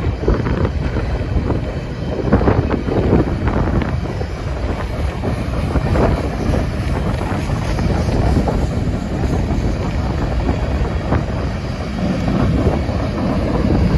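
A freight train's covered hopper cars rolling past at steady speed, the wheels running with irregular clacks over the rail joints.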